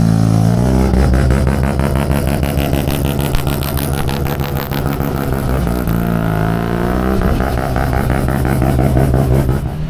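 Loud exhaust of a rotary-engined Mazda as it pulls in. The revs drop about half a second in, settle, then rise and fall again between six and seven seconds in.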